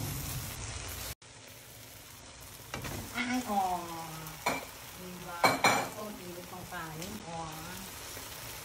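Kimchi sizzling as it fries in sesame oil in a nonstick wok, stirred with a spatula. The sound cuts out briefly a little over a second in, and from about three seconds in a person's voice comes in over the frying, with a few sharp clicks.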